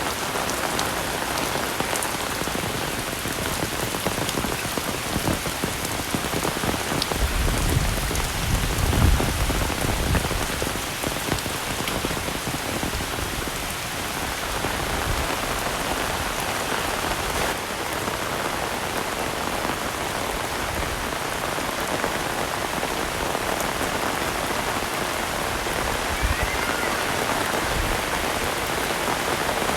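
Heavy rain falling steadily, a dense even hiss, with a brief low rumble swelling up about eight seconds in.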